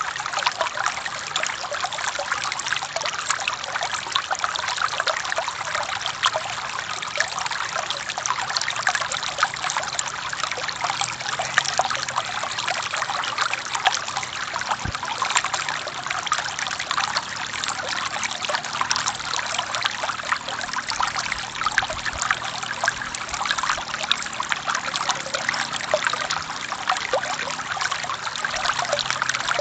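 A forest stream flowing over rocks: steady babbling and splashing of running water.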